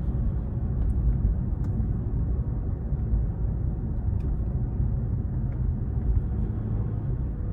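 Steady low rumble of a car driving, heard from inside the cabin: road and tyre noise.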